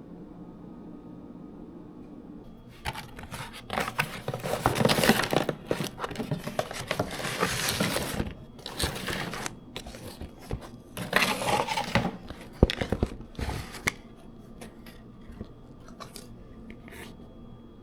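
Packaging being opened by hand: bursts of tearing, crinkling and rustling of paper or plastic, with small sharp clicks, for about eleven seconds.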